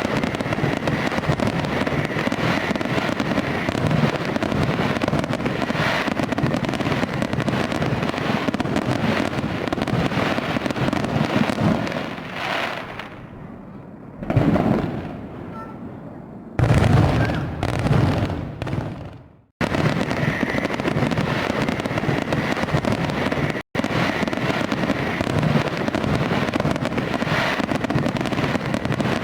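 Fireworks going off in a dense, continuous crackling barrage. Around the middle it thins out and a few single louder bangs stand out, and the sound cuts off abruptly twice for a moment where the recording is spliced.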